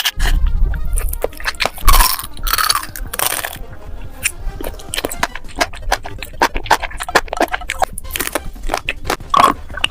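Close-up eating sounds: crunchy food being bitten and chewed in a quick run of crackly crunches, with louder swells about two seconds in and again near the end.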